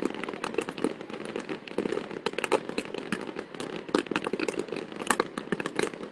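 Fireworks crackling overhead: a dense, continuous stream of sharp pops and crackles, with no deep booms.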